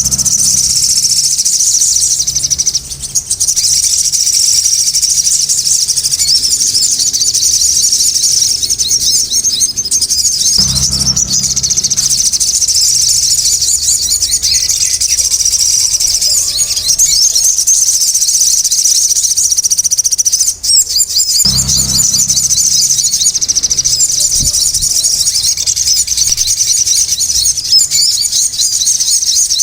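A sogon songbird singing continuously in loud, rapid, high-pitched chattering chirps.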